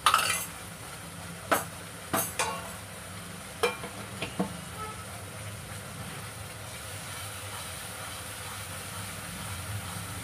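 Onion-tomato masala with freshly added ground spices frying in oil in a non-stick wok, with a steady sizzle and a spatula stirring it. There are a few sharp knocks against the pan in the first half, the loudest right at the start.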